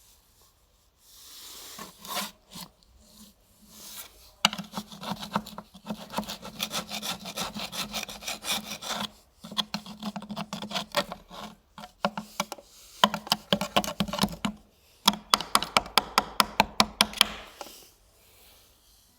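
Bursts of rapid rasping strokes of a tool working a workpiece, with short pauses between them, then a run of sharper, quicker strokes, about five or six a second, near the end.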